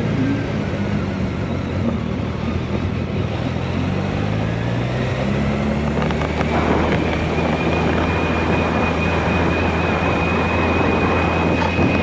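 Motorcycle engine running on the move, with wind noise on the microphone. The engine pitch climbs as it accelerates, from about two to six seconds in, then holds steady. A thin, high, steady whine joins about halfway through.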